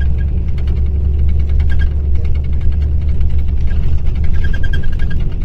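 Mercedes-Benz O-500RSD coach's rear-mounted diesel engine running steadily with a deep, loud drone.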